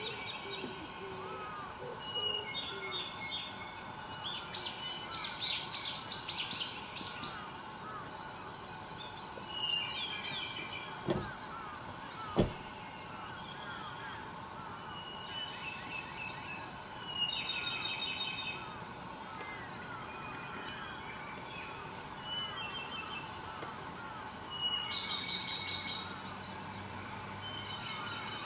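Several wild birds singing, with repeated short trilled phrases over a constant background of small chirps. Two sharp knocks come a little before the middle, the second the loudest sound.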